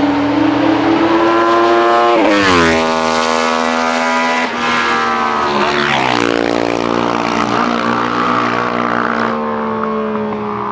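Classic racing motorcycles passing at speed under power, the engine note dropping sharply as one goes by about two seconds in and another about six seconds in.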